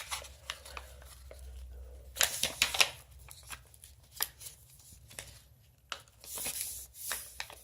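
Sheet of paper being folded in half and creased by hand: irregular crisp rustles and scrapes, in a cluster a little after two seconds in and again near the end.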